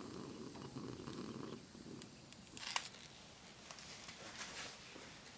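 Wood campfire burning faintly: a low fluttering rumble of flame for the first second and a half, then scattered crackles and pops.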